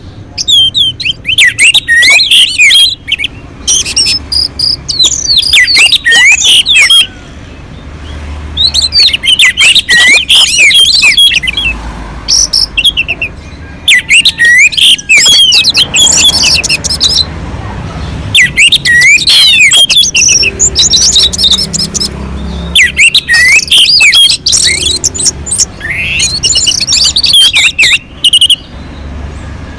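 Orange-headed thrush (anis merah) singing loud, repeated phrases of fast, varied whistled notes, each phrase a second or two long with short pauses between.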